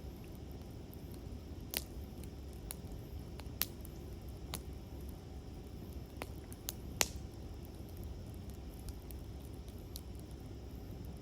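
Wood campfire crackling: scattered sharp pops and snaps, a handful of them louder, over a steady low rumble.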